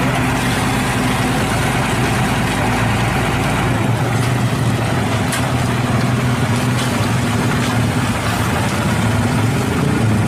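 Heavy vehicle engine idling steadily, with a few faint clicks in the second half.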